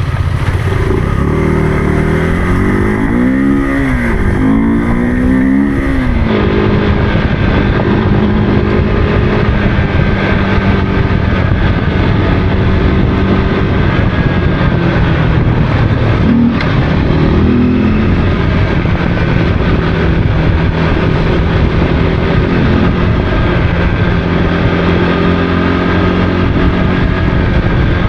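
Motorcycle engine running while riding, its revs rising and falling several times in the first few seconds, then holding a fairly steady pitch with brief small rises.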